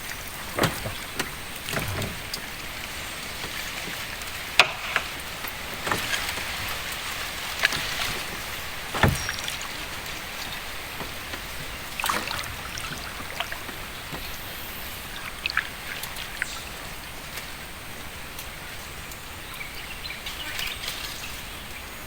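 Water sloshing and splashing around a small boat, with scattered knocks and clicks.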